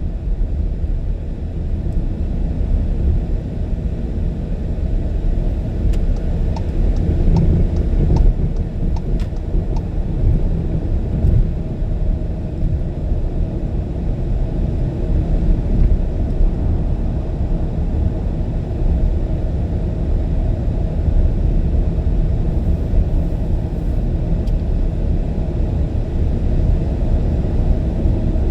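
Steady low rumble of a car driving at freeway speed, mostly road and engine noise. A few faint ticks come through about a quarter of the way in.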